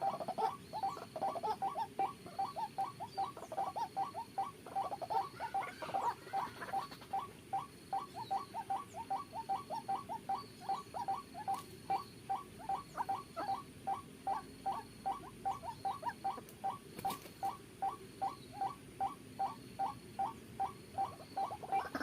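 White-breasted waterhen (ruak-ruak) calling: a monotonous series of short, rising notes, about three a second, kept up without a break.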